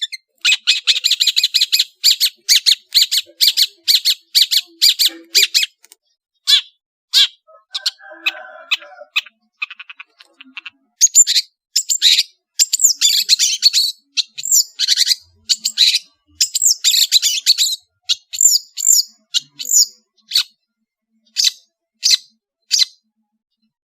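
Long-tailed shrike (cendet, Madura type) singing a loud, varied song: fast stuttering chatter at the start, then sharp whistled and gliding phrases, thinning to single sharp notes about a second apart near the end.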